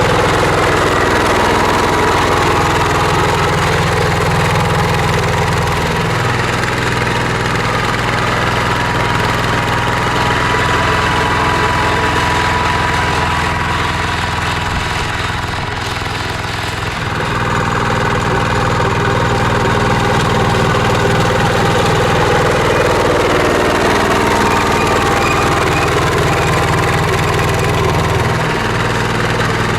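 Mini tractor's engine running steadily while plowing, its note dipping briefly about six seconds in and again near the end, with a slightly quieter stretch around the middle.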